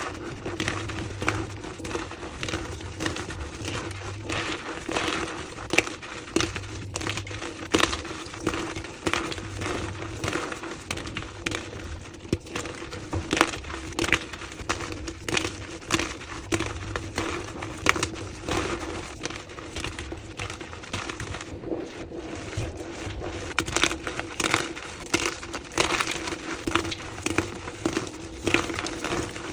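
Blocks of gym chalk being crushed and crumbled, a dense run of crisp crunches and crackles, played back at double speed. A steady low hum runs beneath.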